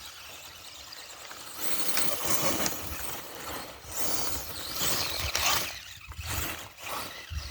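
Brushless-powered Axial Wraith RC truck's motor and drivetrain whirring in repeated surges as it drives through mud and water, with wind on the microphone.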